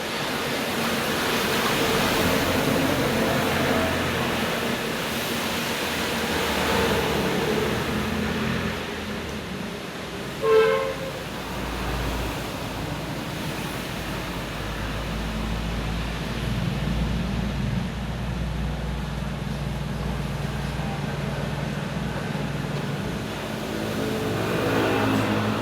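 Road traffic passing, rising and fading in slow swells with a low rumble, and one short horn beep about ten seconds in.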